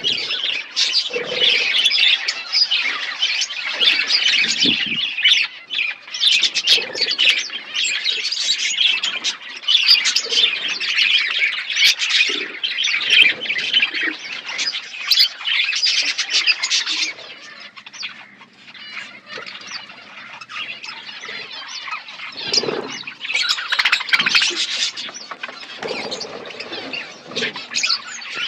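A colony of budgerigars chirping and chattering together, many birds calling over one another in a dense, continuous warble. It thins out for a few seconds past the middle, then picks up again.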